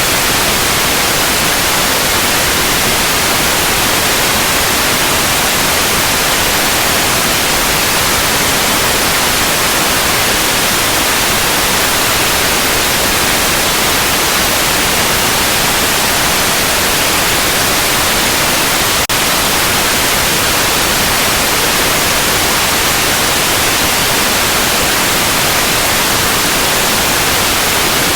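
Steady, loud synthetic white noise, an even hiss across the whole range, with a split-second dip about two-thirds of the way through.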